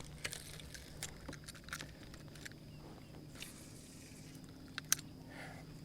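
Faint handling noises: scattered light clicks and taps, one sharper click about five seconds in, over a low steady hum.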